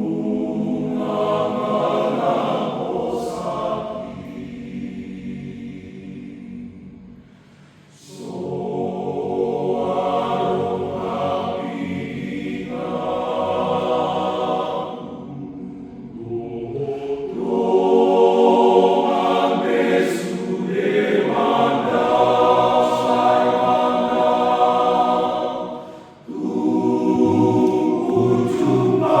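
Men's church choir singing a Batak hymn in several parts, in long held phrases, with short pauses between phrases about seven seconds in and again near the end.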